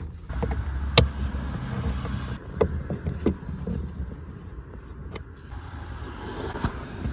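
Handling noises from working on an Acura TL's cabin air filter housing: a few sharp clicks and knocks over a low rumble, the loudest click about a second in.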